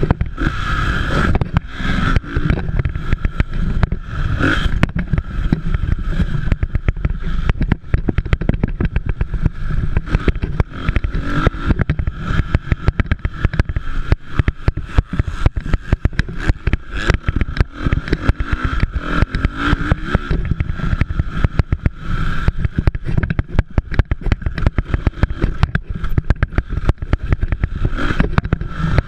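Motocross motorcycle engines running during a race, under a constant low rumble and crackling.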